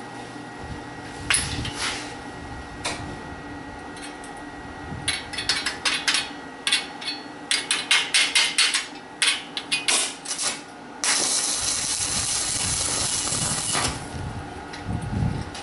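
Hammer knocking on steel angle-iron pieces: a few knocks, then a quick run of sharp metallic blows, followed by a steady hiss lasting about three seconds.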